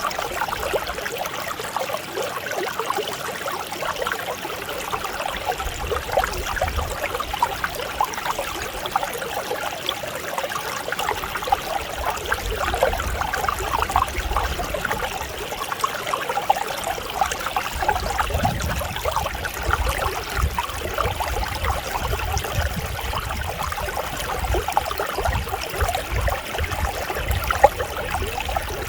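Clear mountain stream flowing over rocks: a steady, gentle rush and burble of water with small splashes throughout, and a faint low rumble that comes and goes.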